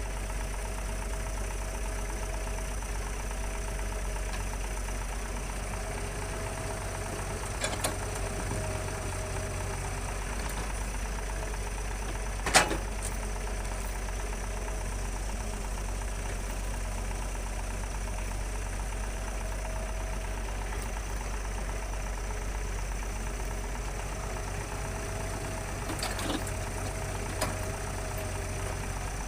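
Diesel engine of working heavy machinery running steadily, with a few sharp knocks; the loudest comes about twelve seconds in.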